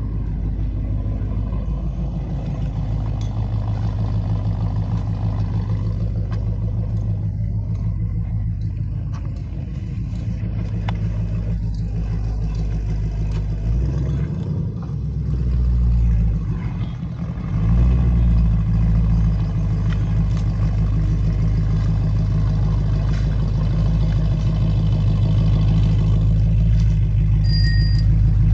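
A car engine running with a deep, steady low hum; about halfway through its pitch dips and rises and it gets louder, as with the engine being revved or the car changing speed.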